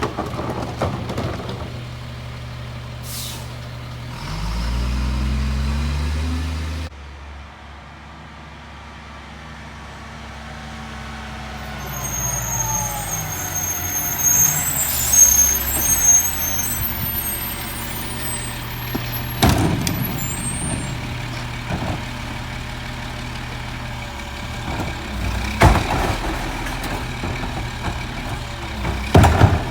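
Peterbilt McNeilus rear-loader garbage truck's diesel engine idling, then rising in pitch for a few seconds before cutting back abruptly. A high squeal follows in the middle, and there are several sharp bangs later on.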